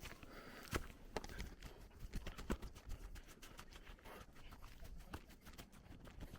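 Footsteps of a person walking along a path: a run of irregular short taps and scuffs.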